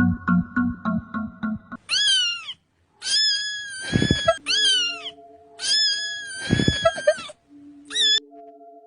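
A cat meowing five times: short, long, short, long, then a brief last one. The long meows hold their pitch and fall at the end. A rhythmic music beat plays for the first couple of seconds, and held electronic notes sound between the meows.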